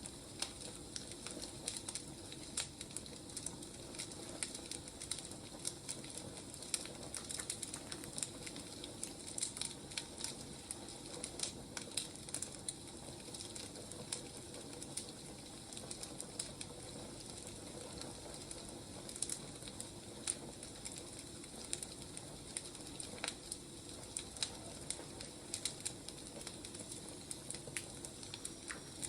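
Wood fire burning, with irregular crackles and pops over a steady low hiss.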